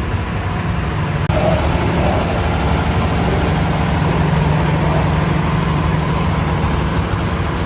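Tractor engine running steadily, a low continuous hum. It gets a little louder after a sharp click about a second in.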